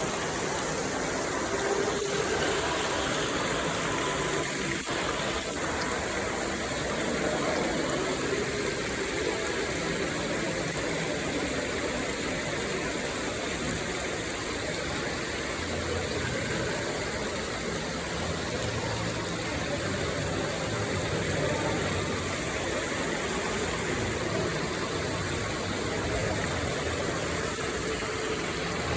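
Steady, even rush of running water from an artificial creek with fish.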